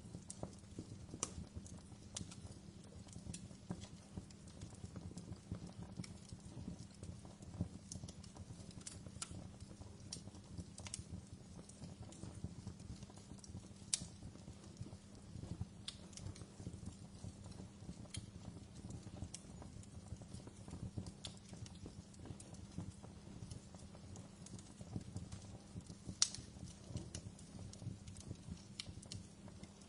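Wood fire crackling in a fireplace: a low steady rumble of burning with irregular sharp pops and snaps, two louder pops near the middle and near the end.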